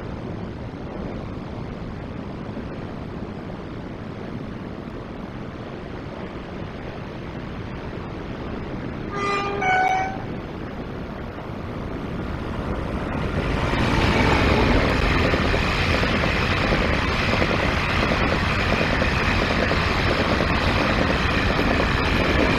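Surf and wind hiss until a Taiwan Railways express passenger train sounds its horn briefly about nine seconds in, in two short notes of different pitch. From about thirteen seconds the train passes close by, louder, with a steady rumble of wheels on rail and a faint high whine over it.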